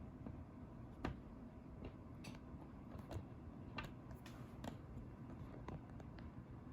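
Hands handling a plastic-wrapped figure and its packaging pieces: scattered small clicks and taps over faint rustling, the sharpest about a second in.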